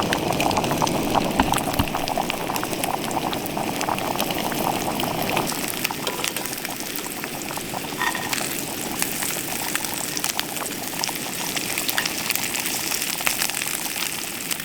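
Small pieces of battered bluegill frying in hot oil: a dense, steady sizzle full of small crackles and pops. It eases off slightly after about five seconds.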